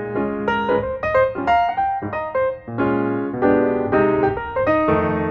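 Background piano music: a melody of many short notes over a steady lower accompaniment.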